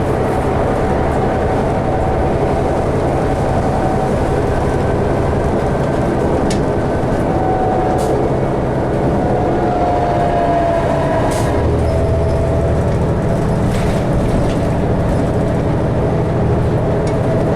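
Cabin noise inside a 2012 New Flyer D60LFR articulated diesel bus under way: a steady engine and road rumble with a thin whine that slides lower about ten seconds in. There are occasional clicks and rattles, and the low rumble grows stronger from about eleven seconds.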